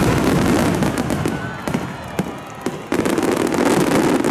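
Aerial fireworks shells bursting overhead, one loud boom at the start and another about three seconds in, with rumbling echo and sharp crackles between as the glittering stars burn out.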